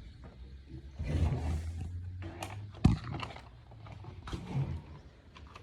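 Low, short notes from the bass side of a 1928 Wurlitzer 120-bass accordion as bass buttons are pressed: one held about a second and a half, a weaker one near the end. A single sharp click sounds about three seconds in.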